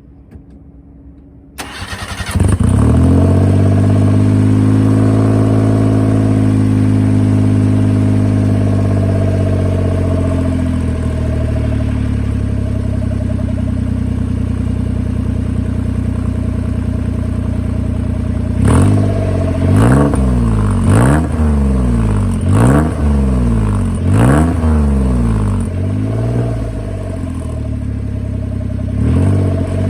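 Suzuki Carry DA62T's naturally aspirated 660 cc three-cylinder engine, heard through a stainless aftermarket muffler with its baffle fitted. It starts about two seconds in and runs at a raised idle that slowly drops and settles. Near the end it is blipped with six or seven short revs.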